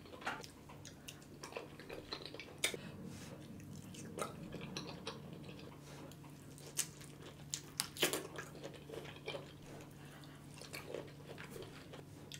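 Close-up mouth sounds of a person chewing shellfish meat dipped in creamy alfredo sauce: wet smacks and clicks at irregular intervals, over a faint steady low hum.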